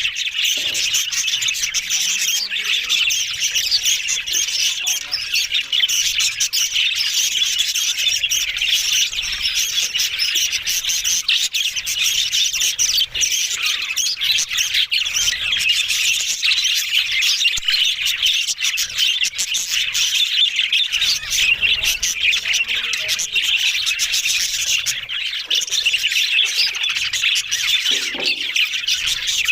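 Budgerigars chattering, chirping and squawking without a break, many short calls overlapping.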